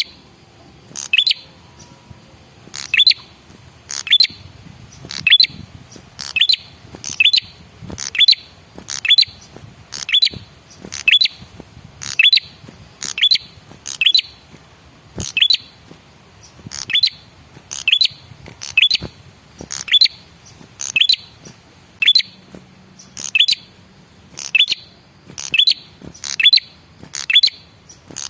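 Male red-headed prenjak (prenjak kepala merah) repeating a short, sharp, high call about once a second in a steady, even series. This is a lure recording meant to draw a reply from a male of the same bird.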